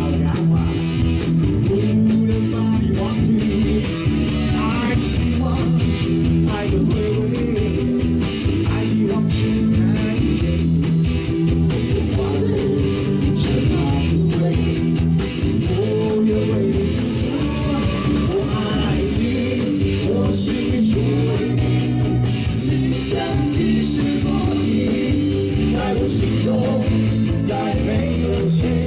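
Live rock band playing a ballad: electric guitar, bass and drums at a steady beat, loud through a PA system.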